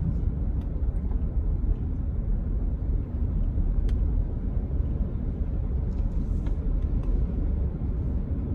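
Steady low rumble of a vehicle being driven, road and engine noise heard from inside the cab, with a few faint small clicks.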